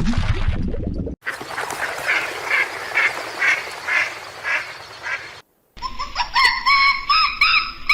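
Animal calls from cut-together clips: after a low rustling second, a rapid run of repeated calls at about two a second. After a brief gap comes a different pitched, gliding call.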